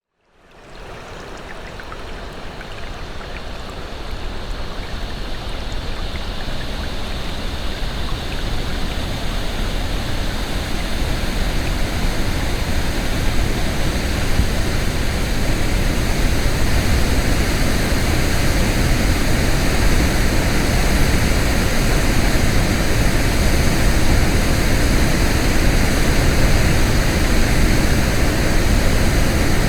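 Waterfall, a steady rush of falling water that fades in at the start and slowly grows louder.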